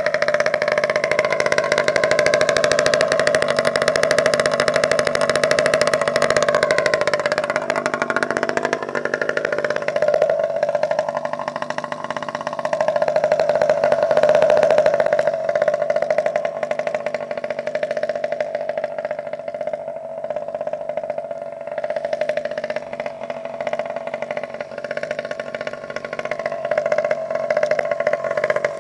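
Pocket bike's small two-stroke engine running through a GP exhaust, held at a steady high-pitched fast idle, with the pitch swinging up and down a few times as the throttle is blipped.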